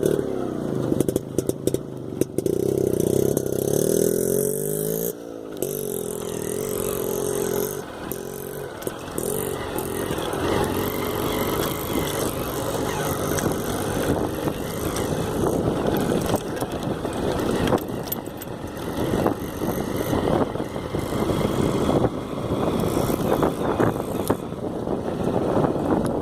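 Motorcycle engine running while riding on a rough off-road track. A clear engine note shifts in pitch about five seconds in, then gives way to a rough, noisy rumble with many short jolts.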